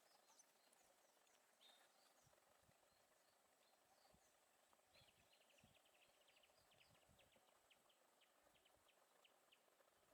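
Near silence with faint bird chirps, including a quick run of short notes about halfway through.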